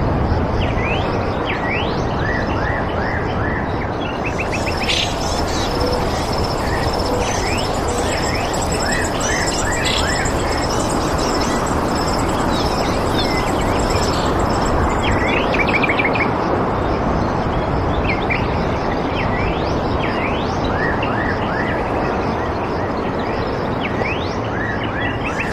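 Birds chirping in many short, quick calls over a steady rushing background, with a high thin continuous trill that joins about four seconds in.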